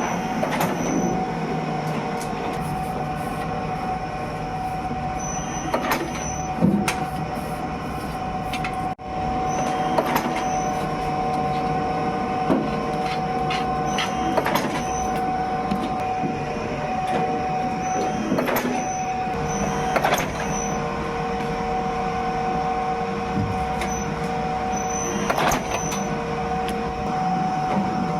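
Soap-making factory machinery running steadily, with a constant two-note hum and irregular sharp clacks every few seconds.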